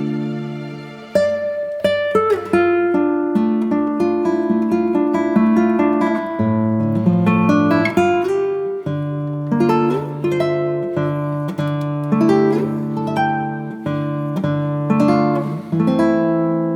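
Background music: acoustic guitar playing plucked notes over sustained bass notes.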